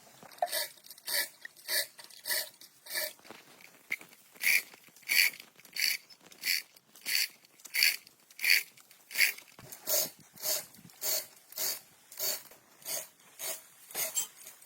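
Rhythmic scraping strokes, one about every two-thirds of a second, over twenty in a row at an even pace.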